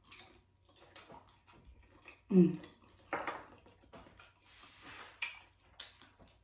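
A person chewing a mouthful of food close to the microphone: wet chewing and lip-smacking clicks, with a short hummed 'mm' dropping in pitch about two and a half seconds in.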